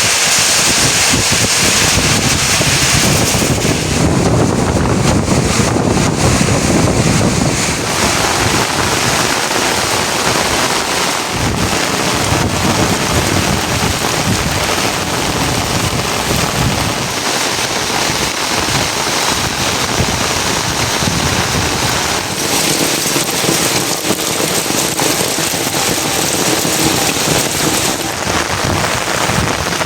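Steady heavy rainfall, an even hiss of rain falling on surfaces, with a low rumble swelling for a few seconds early in the stretch.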